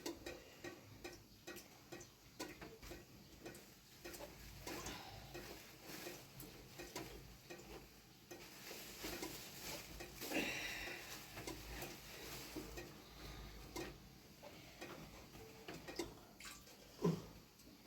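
Faint, irregular light clicks and knocks, with a brief louder knock near the end.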